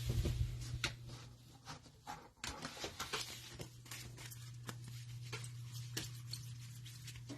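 Faint, irregular clicks and light rustles of trading cards being handled and sorted, over a low steady hum.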